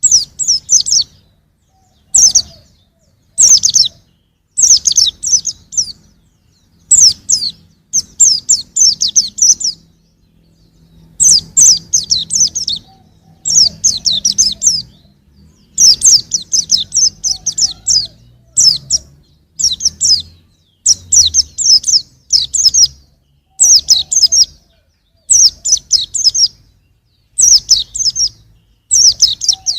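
Young white-eye (pleci) singing: short phrases of high, rapid chirping notes, repeated every second or two, some running on into longer twittering runs.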